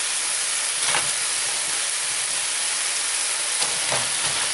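Food sizzling in a hot skillet: fried mushrooms just added to an oily chili-sauce gravy, a steady hiss with a couple of faint knocks.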